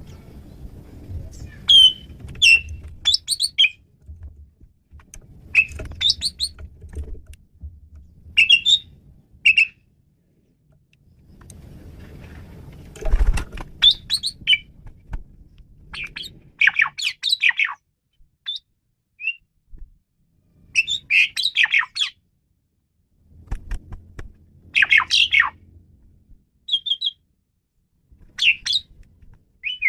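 Male Asian pied starling singing a varied song of short chirping, whistled and harsh notes in phrases broken by brief pauses. A low rumble sits under the song in several stretches.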